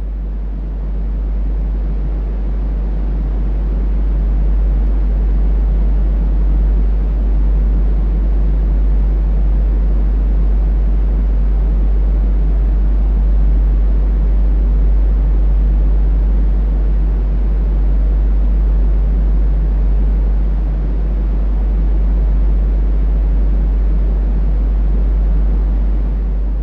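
Smoothed brown noise layered with a deep, steady hum: a continuous rushing noise weighted low, over a strong low drone, swelling slightly over the first few seconds and then holding level.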